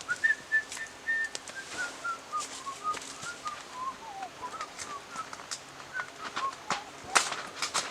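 A clear whistled line of notes, held high for about a second and then wandering lower in short rising and falling steps, over scattered sharp clicks and clinks of cooking utensils, the loudest click near the end.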